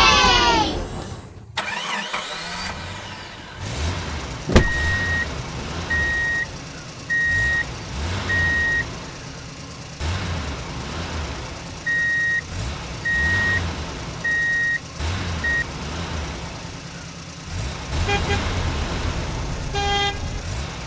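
Vehicle reverse-warning beeper sounding in two runs of four short, high, steady beeps, each about half a second long and a little over a second apart, over a low engine rumble. A sharp click comes just before the first run.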